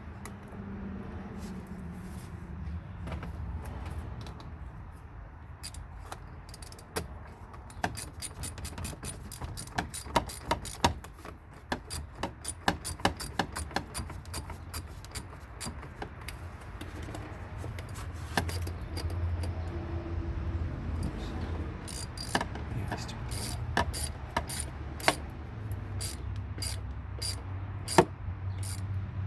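Ratchet wrench clicking in quick runs as clamps are tightened on a newly fitted throttle body: a dense run of clicks in the middle and a sparser run near the end.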